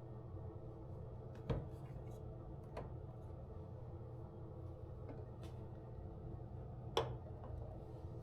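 A few light clicks and knocks of household objects being handled, two sharper ones about a second and a half in and near the end, over a steady low hum.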